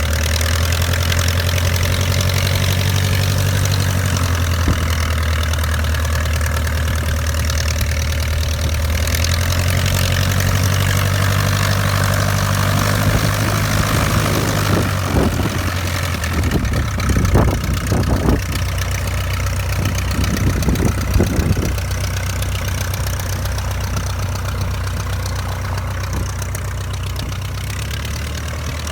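De Havilland Chipmunk's four-cylinder piston engine ticking over at idle, a steady low drone. A few irregular louder bumps come about halfway through.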